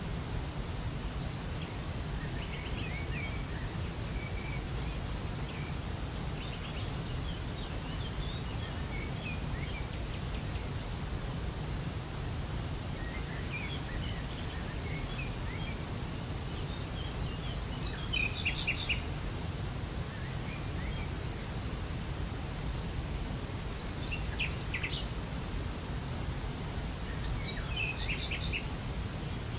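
Steady rush of a waterfall, deepest in the low end, with small birds chirping over it; a few louder bursts of bird calls come about two-thirds of the way in and again near the end.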